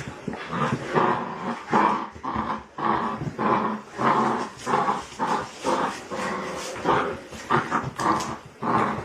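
A dog vocalizing in a long run of short pitched calls, about two a second.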